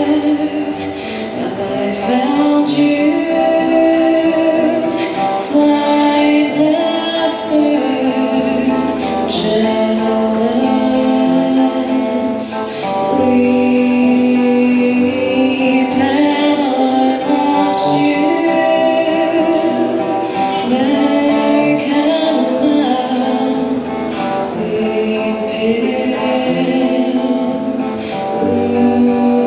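Several voices singing a slow song together in harmony, female voices prominent, with long held notes.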